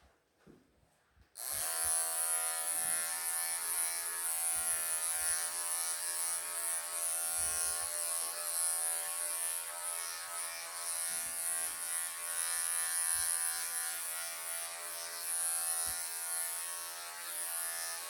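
Wahl professional electric pet clippers switch on about a second and a half in and then run with a steady buzz and high hiss, clipping through a Persian cat's thick, matted coat.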